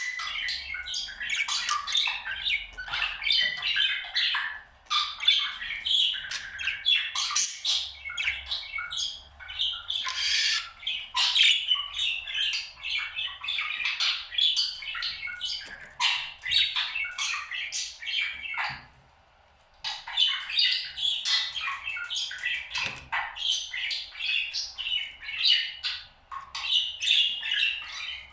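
Pet parrot chattering and warbling in a rapid, near-continuous stream of chirps and squawks, broken by a pause of about a second two-thirds of the way through.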